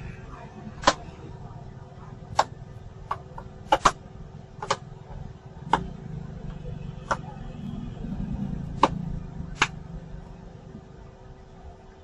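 About a dozen sharp clicks and taps at irregular intervals, roughly one a second, over a low steady hum.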